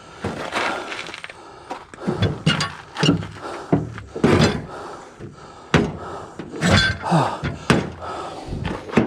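Irregular knocks, thuds and scraping of heavy metal parts being handled and shifted around.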